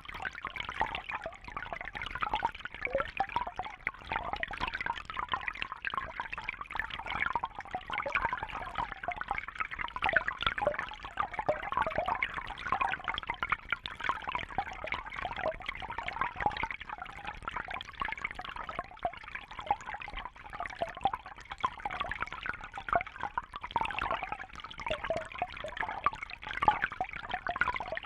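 Aquarium water trickling and bubbling steadily, a dense stream of small splashes and bubble pops.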